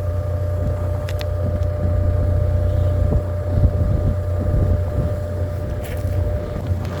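Strong, gusty wind buffeting the microphone with a heavy low rumble. A steady thin tone runs through it.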